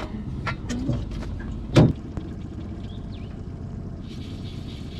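Boat motor running steadily, with a few knocks in the first two seconds, the loudest a sharp thump just under two seconds in.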